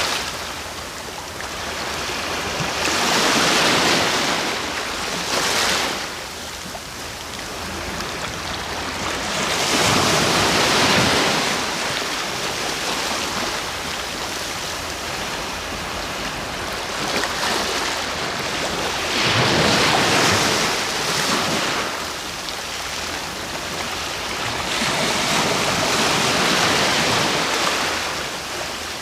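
Ocean waves breaking and washing ashore, a steady wash of surf with about five waves swelling up and falling away.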